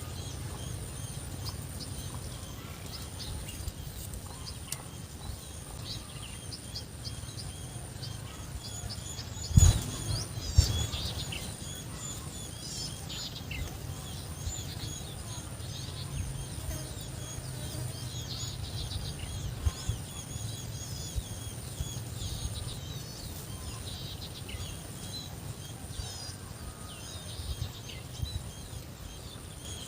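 Many small birds chirping and calling continuously over a steady high-pitched whine and a low outdoor rumble. Two loud thumps about ten seconds in.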